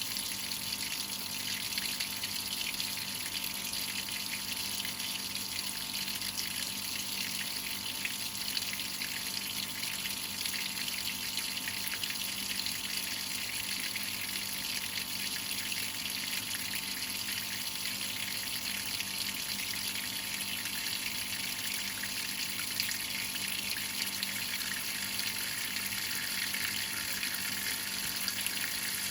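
Water running steadily inside a Whirlpool top-load washing machine during its cycle, an even rushing hiss with a faint low hum underneath.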